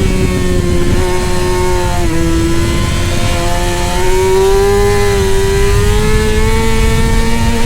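Racing motorcycle engine running hard at high revs, its pitch dipping briefly about two seconds in and then climbing slowly, over a steady low rush.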